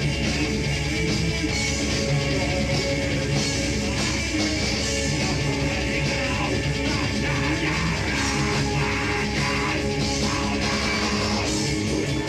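A live rock band playing loud, heavy, distorted music with a drum kit, without pause.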